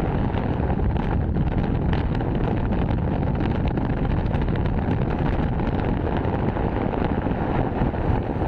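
Steady wind rush over the microphone on a moving motorcycle, with engine and road noise underneath.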